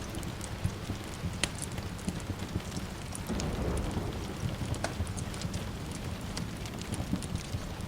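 Steady rain falling, with sharp crackles and pops from a burning wood fire scattered through it over a low rumble.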